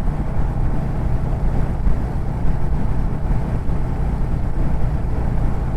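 Royal Enfield Hunter 350's single-cylinder engine and exhaust running steadily at cruising speed while riding.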